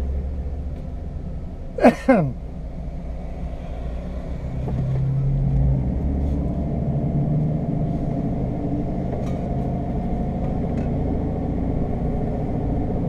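Jeep's engine running with a steady low rumble from inside the cab, its pitch lifting slightly about five seconds in. About two seconds in there is one brief loud sound that falls in pitch.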